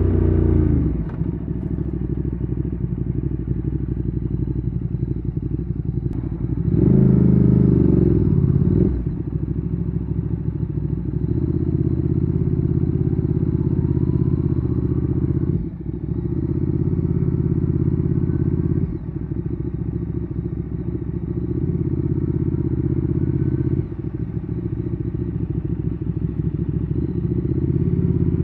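Ducati Streetfighter 848's V-twin through a Termignoni exhaust, heard from the rider's seat. The revs fall away in the first second, a louder burst of throttle comes about seven seconds in, and then the engine runs steadily at low revs with a few brief drops in level.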